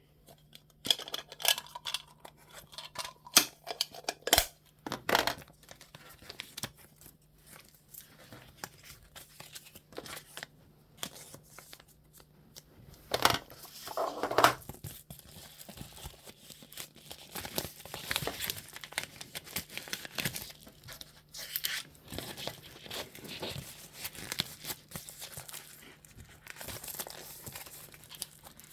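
Irregular crinkling and tearing sounds in short bursts and longer rustles, over a faint steady low hum.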